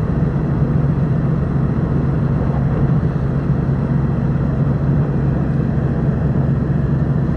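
Steady low drone of a car ferry's engines and machinery, running evenly with no change in level.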